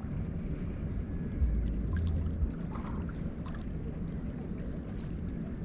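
Small waves lapping and splashing at the edge of the Neva river, with wind buffeting the microphone in a low rumble about a second and a half in.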